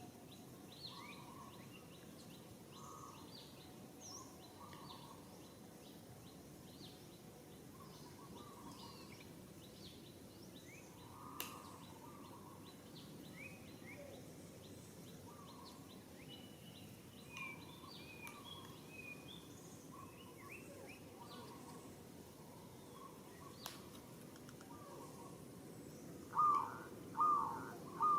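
Birds chirping and calling over a steady outdoor background hiss. Near the end a louder call starts repeating, about five times, a little over half a second apart.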